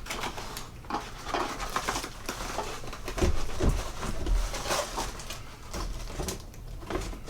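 Packing material and accessories being rustled and crinkled as they are thrown back into a cardboard box, with a few dull thumps about three to four and a half seconds in.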